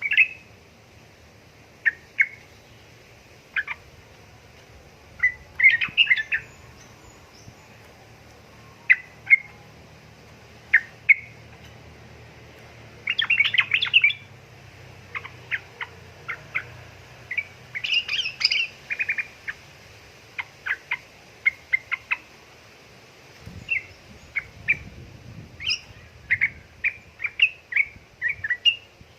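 Yellow-vented bulbul (trucukan) calling: short chirping notes scattered through, with thicker rapid chattering bursts about six, thirteen and eighteen seconds in, and a run of quick notes near the end.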